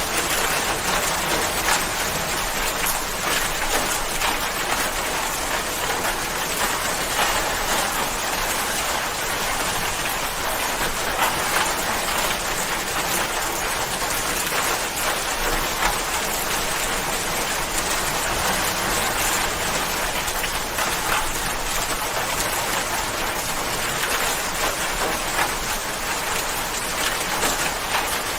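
Steady rain falling, a dense even hiss of many drops hitting a surface.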